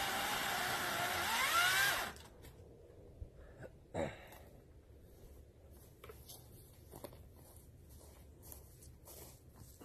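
Battery-powered Greenworks 40-volt chainsaw cutting through a log, its whine rising before it stops suddenly about two seconds in. A few light knocks of wood follow, the loudest about two seconds after the saw stops.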